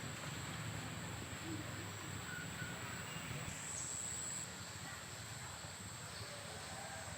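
Steady outdoor background noise, a continuous even rush with a low rumble under it, with a few faint short bird chirps.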